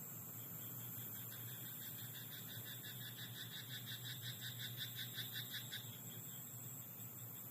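A frog calling: a rapid run of evenly pulsed croaks, about six a second, starting a second or so in and lasting about four and a half seconds.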